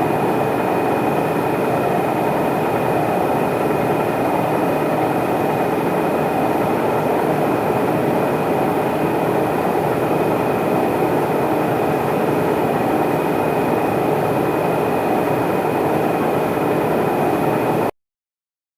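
Metal lathe running steadily, with a thin, steady high whine over the machine noise; it cuts off abruptly near the end.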